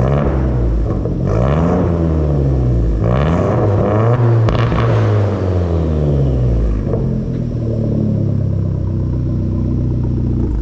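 Hyundai Genesis Coupe's turbo four-cylinder engine revved about three times, its exhaust note rising and falling, then settling to a steady idle. The engine is being revved to heat the exhaust, which runs through a resonator.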